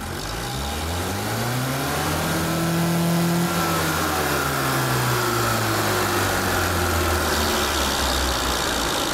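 A car engine carrying four stacked flywheels, about 28 kg, and no gearbox, revved by hand at the throttle. The revs climb slowly for about three seconds, then the throttle is released and the revs wind down very slowly and steadily: the heavy flywheel mass is keeping the engine turning.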